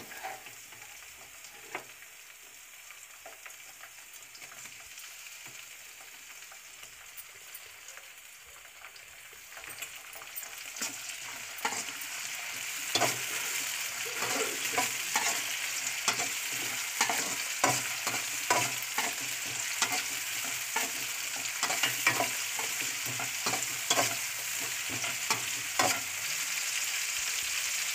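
Sliced onions and tomato pieces sizzling in hot oil in a metal kadai, stirred with a slotted metal spatula that scrapes and taps against the pan. The sizzling is softer at first and grows louder about ten seconds in, after which the spatula strokes come again and again.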